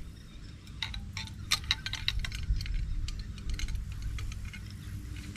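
Fishing reel clicking irregularly while a hooked bass is fought on the line, over a steady low rumble.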